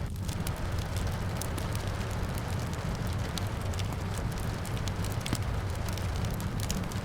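Wood fire crackling in a fireplace, with frequent sharp pops and snaps over a steady low rumble, mixed with steady rainfall.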